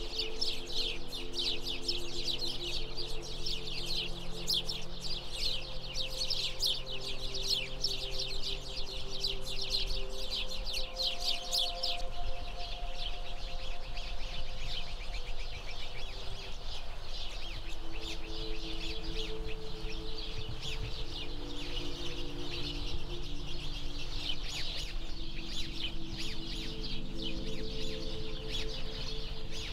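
A chorus of small birds chirping rapidly and continuously, busiest for the first dozen seconds and thinner after, over soft long-held low tones that change every few seconds.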